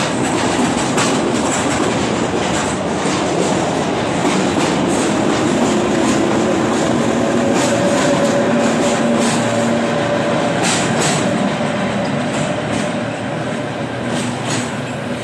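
London Underground battery locomotives hauling wagons of rails through a station, the wheels clicking over the rail joints in an uneven clatter. A steady whine runs through the middle of the pass.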